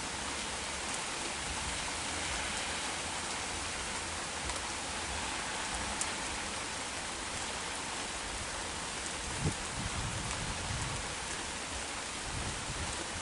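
Heavy rain shower falling steadily, with scattered drop ticks and a brief low rumble about two-thirds of the way in.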